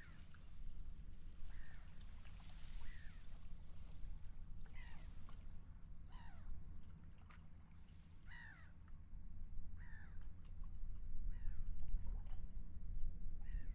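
Seagulls calling again and again, each call a short squawk falling in pitch, roughly every second and a half, over a steady low rumble.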